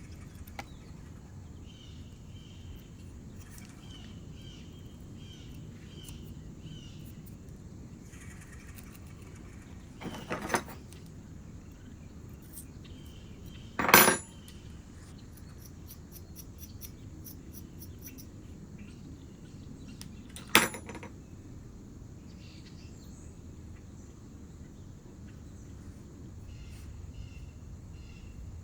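Hand tools knocking and clinking on a hard work surface during clay sculpting: three sharp knocks, the loudest about halfway through, against a low steady hum.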